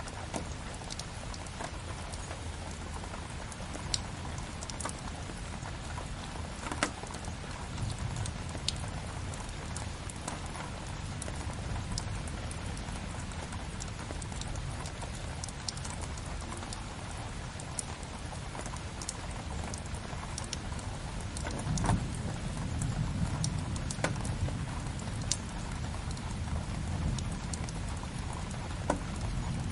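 Steady rain with a crackling wood fire: an even hiss over a low rumble, broken by scattered sharp pops and snaps. The low rumble grows louder about two-thirds of the way in.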